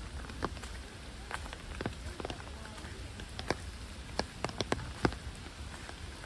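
Heavy rain falling steadily, with many individual drops striking sharply and irregularly close by.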